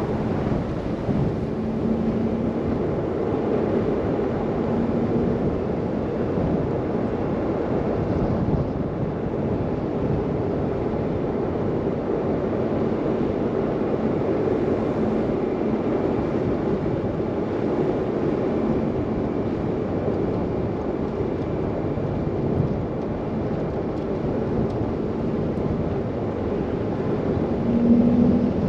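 Steady rushing wind and car driving noise in a snow blizzard, with a brief louder swell near the end.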